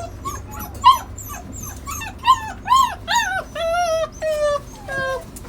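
A dog whining and whimpering in a run of short high-pitched rising-and-falling cries, turning to longer, lower drawn-out whines about three and a half seconds in.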